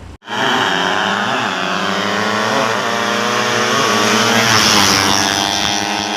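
Tuned 130 cc drag-racing motorcycle engine running loud at high, near-steady revs, its pitch rising and dipping slightly about once a second. It cuts in suddenly just after the start.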